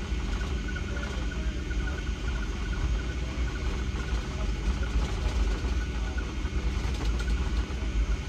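Steady low rumble inside the cabin of a Boeing 757-300 taxiing after landing, its engines running at idle with a faint steady whine above the rumble.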